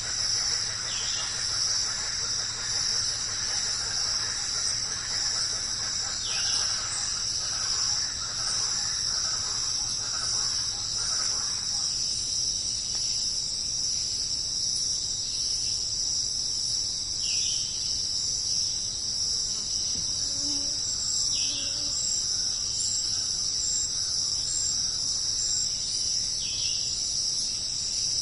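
Steady high-pitched chorus of crickets and other insects, with about five short falling calls scattered through it. There is no thunder.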